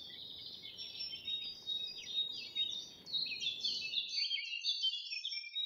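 Several songbirds singing together, a dense run of quick high chirps and trills. A faint low background noise stops abruptly about four seconds in while the birdsong goes on.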